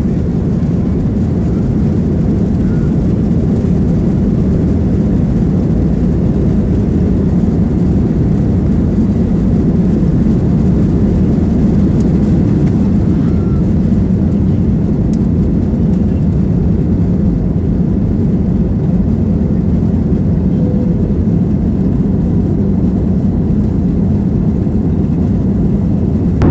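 Steady, loud rumble of a passenger airliner heard from inside the cabin: engine and airflow noise, building a little over the first few seconds and then holding even.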